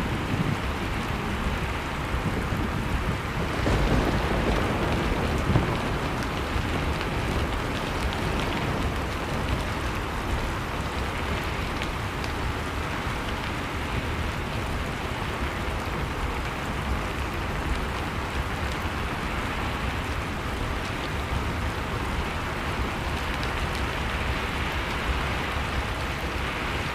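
Blizzard wind and crackling fireplace ambience: a steady rushing noise with a low rumble beneath, swelling slightly about four seconds in.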